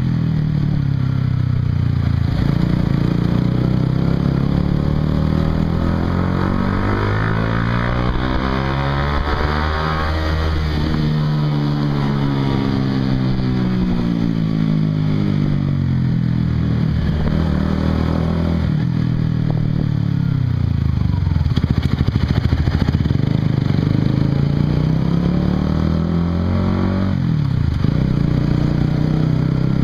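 Honda CBR150R's single-cylinder engine running through a Yoshimura aftermarket exhaust while riding. The revs climb and fall several times, peaking about ten seconds in and again around twenty seconds.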